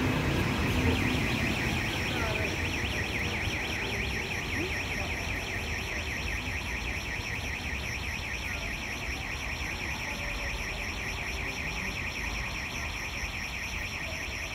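Passenger train pulling out along the platform, its rumble loudest at the start and fading as it draws away, over a fast, steady, high-pitched pulsing that runs throughout.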